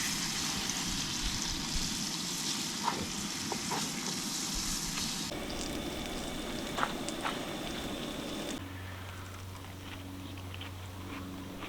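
Fried green tomatoes sizzling in a frying pan, with a few small pops. About five seconds in the sound cuts to something else, and near the end a steady low hum takes over.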